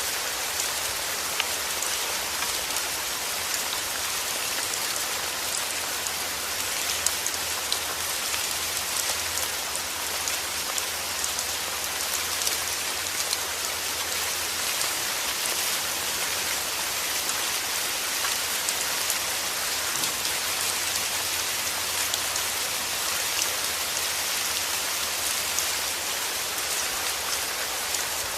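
Steady rain falling on a hard surface, a dense even hiss speckled with the ticks of individual drops.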